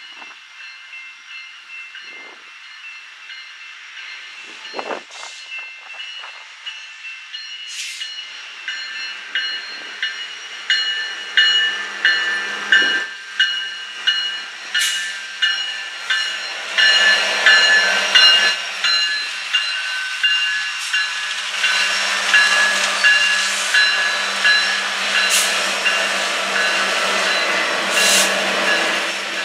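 Freight train's diesel locomotives passing close by, their engine and wheel noise growing louder from about ten seconds in. A grade-crossing warning bell rings steadily throughout, in an even beat.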